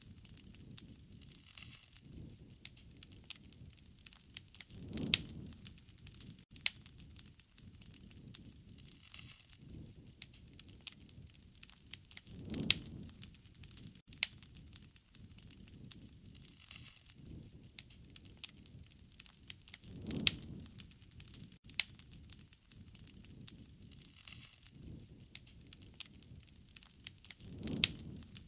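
Wood fire crackling, with many small sharp pops and snaps throughout, and a low whoosh of flame swelling and fading four times, about every seven to eight seconds.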